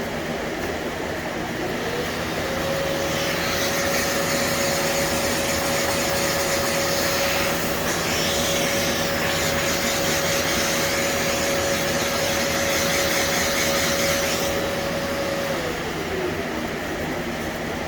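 A small motor spins up about two seconds in, runs at a steady pitch with a hiss over it, then winds down near the end, over a steady background of shop noise.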